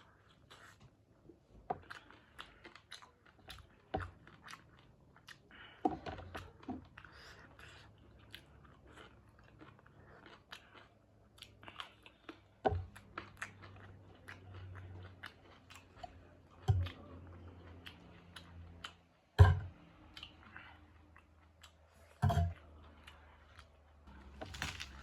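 A person chewing and biting food close to the microphone, with crunches, wet mouth clicks and several louder sharp knocks. The meal is chicken wing curry with rice, broccoli and salad.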